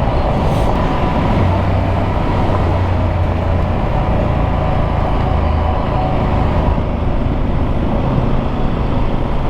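Loaded adventure motorcycle being ridden, its engine running steadily under heavy wind and road noise.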